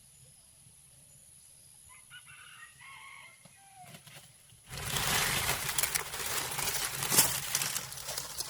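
A chicken calls faintly a couple of times. About halfway through, a loud, rough rustling noise full of small crackles starts and carries on.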